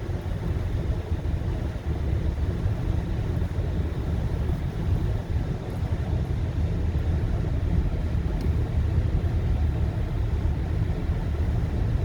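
Steady low rumble of a car driving on a snowy, slushy highway, heard from inside the cabin: tyre and road noise with the engine beneath.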